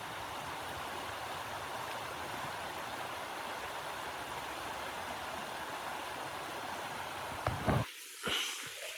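Steady rushing wind, an even haze of noise. Near the end it cuts off abruptly, and a few short, sharp sounds follow over near quiet.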